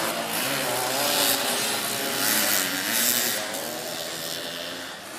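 Engines of racing three-wheeled ATVs, several overlapping, their pitch rising and falling as the riders open and close the throttle.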